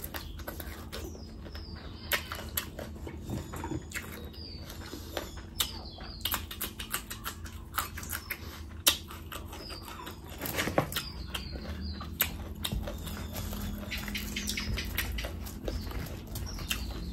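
Close-miked chewing and wet lip-smacking of a mouthful of bhatura and mutton curry: irregular sharp wet clicks and squelches over a faint steady low hum.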